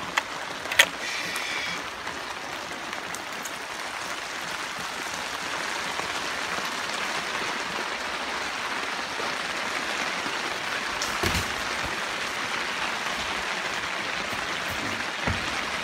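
Rain pattering steadily on the greenhouse's plastic cover, heard from inside. There is a brief squeak and click about a second in and a single knock around eleven seconds in.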